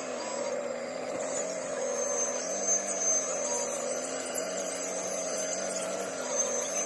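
Heavy earthmoving machine's diesel engine running steadily, with a thin high whine above it.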